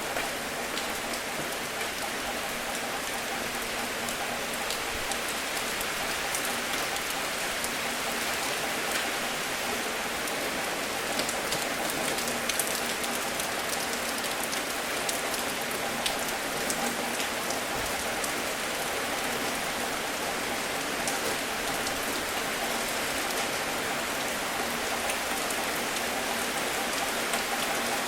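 Steady rain falling, with many scattered sharper drop hits ticking through the even hiss.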